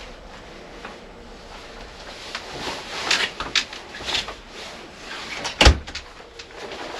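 Irregular rustling and scraping handling sounds, with one sharp, loud knock a little under six seconds in.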